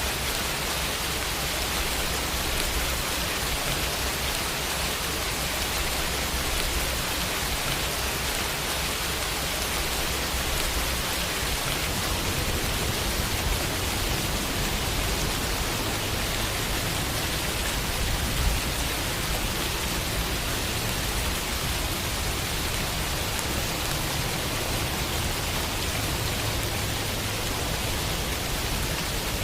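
Steady rain falling on a window, an even hiss of rainfall with one slightly louder drop hit about two thirds of the way through.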